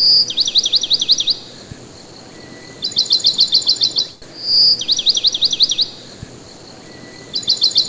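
A small cage bird singing a repeated phrase: a fast trill of about ten notes, a short whistle, then a run of downward-sweeping notes. The phrase comes round about every four seconds, heard twice in full.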